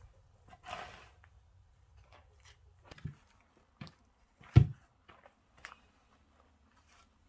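An axe strikes an oak log with one sharp, loud blow a little past halfway, after a few lighter knocks and wood clatter.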